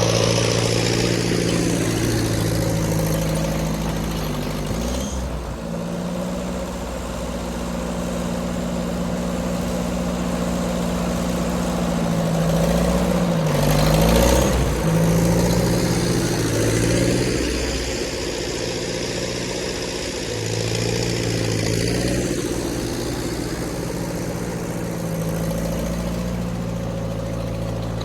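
Ford N-series tractor's four-cylinder engine running under load on a half-track with a front snow blade, its revs dipping and recovering several times as it works; the deepest dip comes about halfway through.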